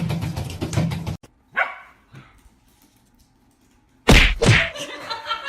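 A dog gives a short yelp falling in pitch, then near the end two loud barks in quick succession. Before that, a loud noisy sound cuts off suddenly about a second in.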